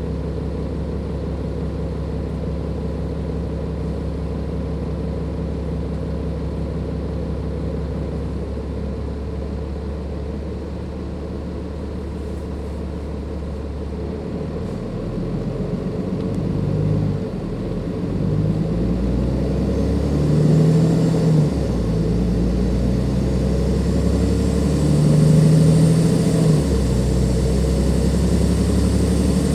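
Dennis Enviro 500 bus's Cummins ISLe diesel engine running steadily at low revs for about the first half, then pulling away and accelerating through the automatic gearbox's gear changes, getting louder. A faint high turbo whistle joins in as it works harder.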